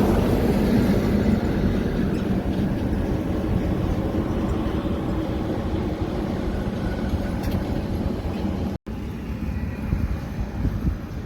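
Heavy truck going by, a steady engine drone with road rumble that slowly fades away. The sound cuts out for an instant near the end, then resumes.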